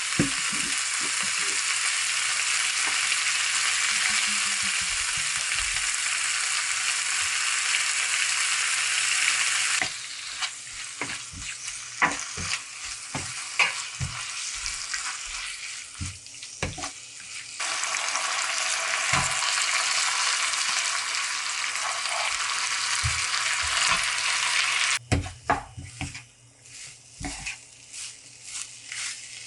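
Food sizzling steadily in a frying pan, cut in and out: two long stretches of sizzle, each followed by a quieter stretch of scattered clicks and knocks from kitchen utensils.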